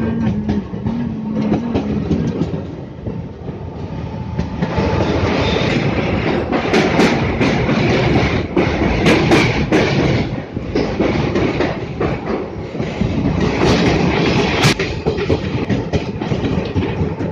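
Passenger train running along the track, wheels clattering and clacking over the rail joints under a continuous rumble of running noise.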